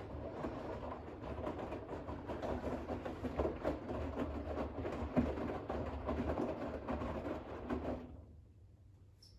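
Bosch WAX32GH1 front-loading washing machine's drum turning during the final rinse, wet towels and rinse water sloshing over a low motor hum, stopping about eight seconds in as the drum pauses.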